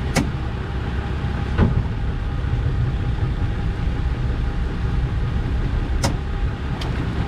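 Fishing boat's motor running with a steady low rumble and a faint steady hum, with a few sharp knocks scattered through it.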